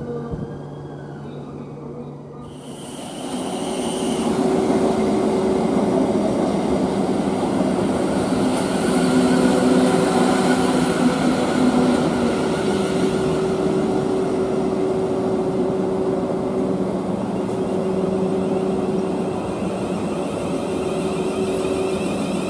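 Electric multiple-unit train running past on the adjacent track. A steady rumble of wheels on rails with a few steady humming tones comes in abruptly about three seconds in and stays loud.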